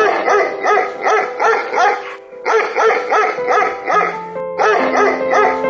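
Dog barking rapidly, about three short yaps a second in three runs with brief breaks between them, over background music with held notes.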